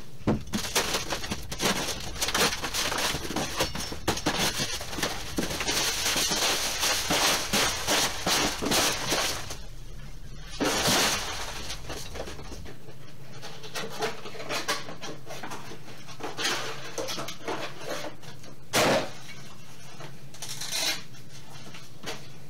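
A cardboard box being ripped open and its packing peanuts and plastic wrapping rustled and tossed out: dense crackling and rustling for about the first ten seconds, then scattered rustles with a couple of short, louder crinkles.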